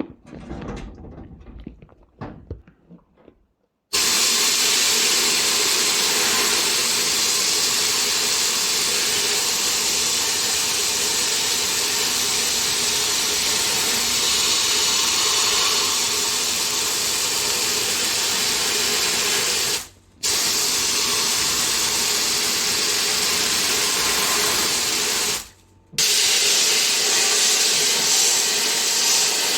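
Sandblasting gun blasting a brake caliper: a loud, steady hiss of air and grit that starts suddenly about four seconds in and stops briefly twice before starting again. Faint clicks of handling come before it.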